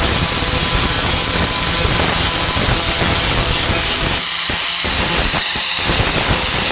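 4-1/2 in. angle grinder with a Type 27 grinding disc, grinding down a flux-core-welded steel patch on a truck tailgate: a steady, gritty grinding with a faint high whine. It eases off briefly twice, about two-thirds of the way through, as the disc is lifted and moved around.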